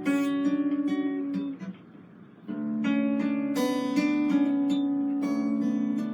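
Acoustic guitar strummed and picked, chords ringing on. The playing breaks off for under a second about two seconds in, then starts again.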